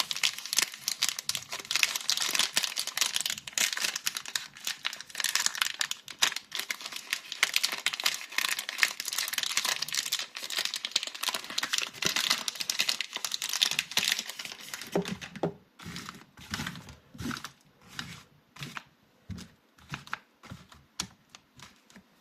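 Soap packaging being crinkled and torn open by hand: dense, fast crackling for about fifteen seconds, then slower, separate rustles and taps that die away near the end.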